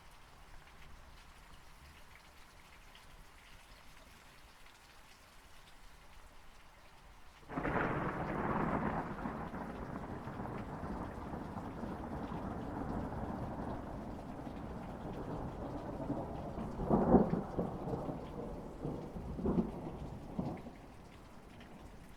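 Steady rain, then about seven seconds in a thunderclap breaks in suddenly and rumbles on for over ten seconds, with several sharper, louder cracks near the end before it dies back to the rain.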